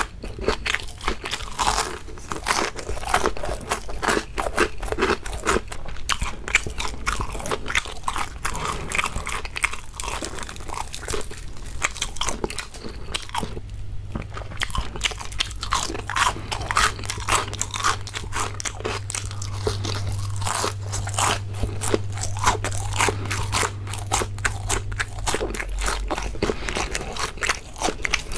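Close-miked crunching and chewing of crispy fried shrimp: rapid crisp bites and crackly chewing, with a short lull about halfway through.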